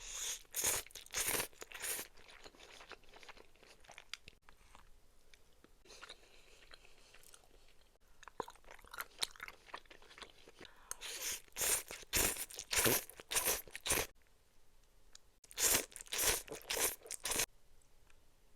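Close-miked eating of noodles and soup dumplings: bites and chewing in three spells of loud, wet mouth noises, at the start, about eleven seconds in and about sixteen seconds in, with quieter chewing between.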